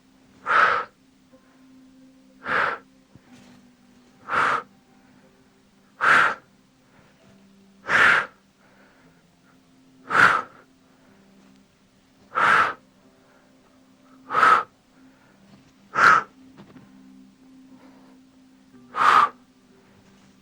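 A person breathing out sharply and forcefully about every two seconds, about ten times, in time with the repetitions of a dead bug exercise. A faint steady low hum runs underneath.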